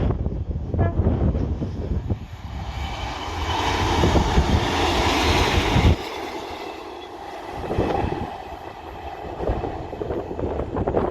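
A diesel multiple-unit train passing, its noise swelling to a peak and then falling away, with wind buffeting the microphone.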